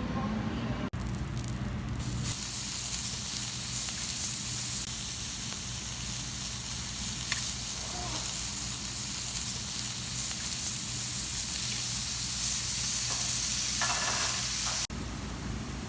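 Food sizzling on a hot cooking surface: a steady, dense hiss that starts abruptly about a second in and cuts off suddenly near the end.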